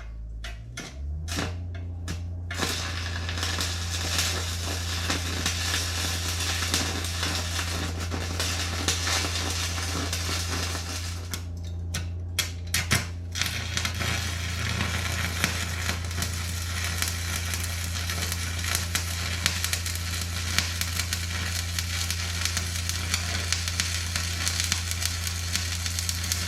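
Electric arc welding on a steel brace: the arc crackles steadily over a low, constant welder hum. It starts and stops a few times in the first couple of seconds and breaks off briefly about twelve seconds in before running on.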